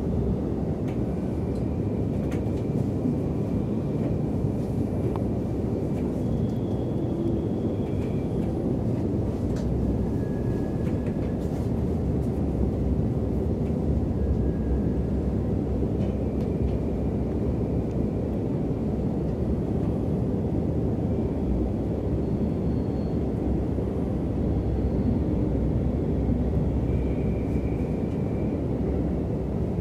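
Intercity passenger train running, heard from inside the carriage: a continuous low rumble of wheels on track, with a few faint, brief high-pitched tones now and then.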